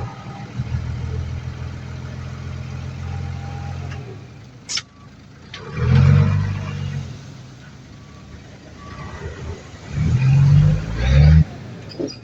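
Heavy diesel engine of earthmoving machinery running steadily, then revving up loudly twice, about six seconds in and again around ten to eleven seconds in. A short click sounds just before five seconds.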